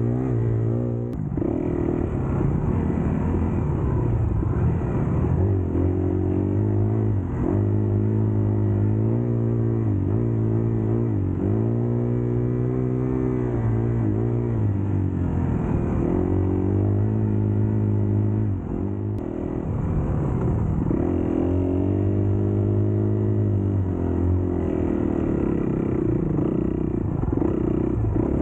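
Dirt bike engine under way off-road, its pitch rising and falling over and over as the rider throttles up and backs off.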